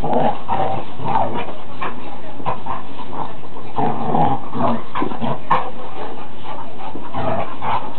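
Two large dogs play-fighting, growling and whining in irregular bursts over scuffling.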